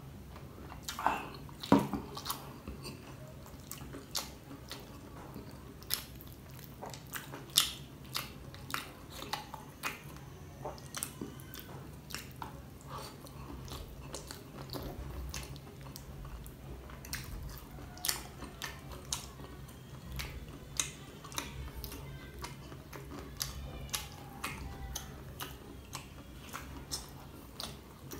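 Close-up mouth sounds of a person eating dynamite shrimp: chewing with many irregular sharp clicks and smacks. Two louder sounds come about two seconds in.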